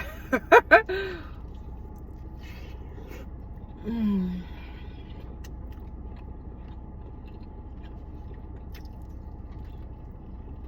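A woman eating rotisserie chicken: a few short, loud voiced sounds in the first second, a brief voiced hum falling in pitch about four seconds in, and quiet chewing with small clicks and scrapes. A steady low hum lies underneath.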